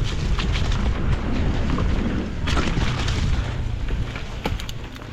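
Mountain bike descending a rocky trail: wind rumbling on the microphone, with scattered knocks and rattles of the tyres and bike on rock and a rougher burst about halfway through.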